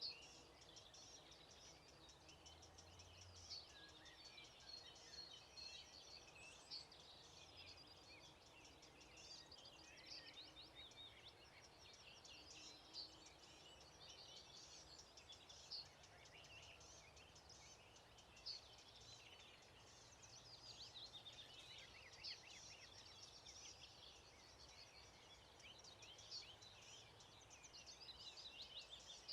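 Faint dawn chorus of many songbirds chirping and trilling over one another, with a few louder single chirps now and then.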